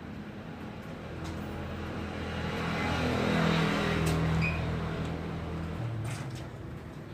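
A motor vehicle passing by: its engine and road noise build up, peak about halfway through and then fade away, dropping in pitch as it goes.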